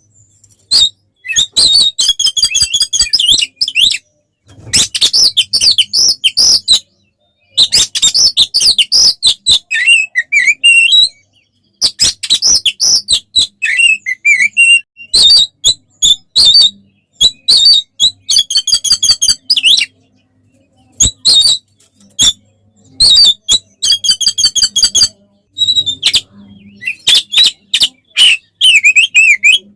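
Oriental magpie-robin (kacer) singing loudly in its agitated fighting song. Fast bursts of rapid repeated whistles and rattling notes come one after another with short pauses between them.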